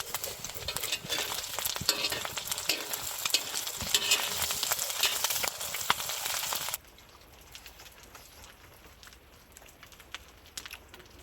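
Food sizzling and crackling in a hot pan, a dense spitting hiss that cuts off abruptly about two-thirds of the way through, leaving faint scattered ticks.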